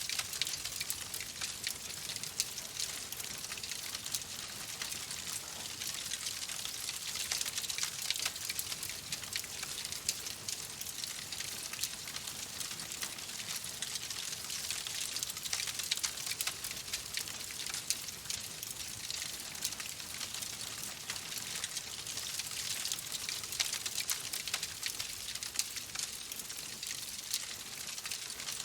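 Wood fire in a fireplace crackling steadily: a constant hiss with many small, irregular pops and snaps.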